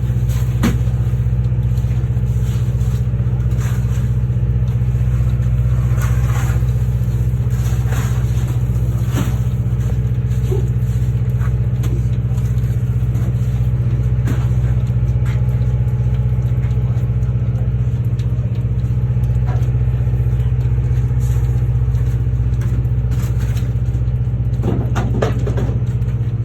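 A steady, loud, low motor hum that runs evenly without changing speed.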